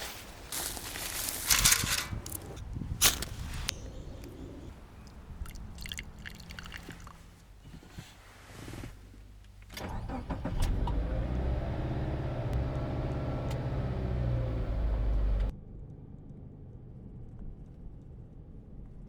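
A car engine starting and running steadily, after a few seconds of knocks and clicks; the engine sound cuts off suddenly.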